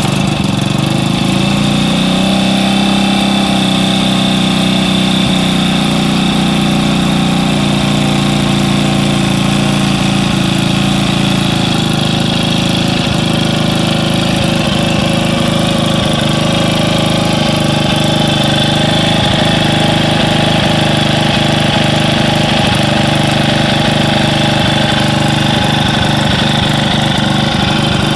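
Honda C200 single-cylinder OHV four-stroke engine, freshly rebuilt at the top end, running at a steady idle. It picks up slightly about two seconds in, then settles into an even, steady beat.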